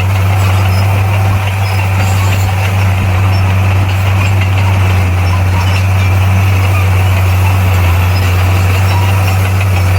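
Heavy diesel engine of a bulldozer running at a steady speed, a loud, even low drone that does not change.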